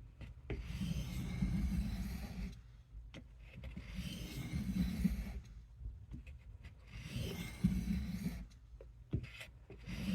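A steel knife blade drawn across a sharpening stone in long, even strokes: three strokes of about two seconds each with short pauses between, and a fourth beginning at the end.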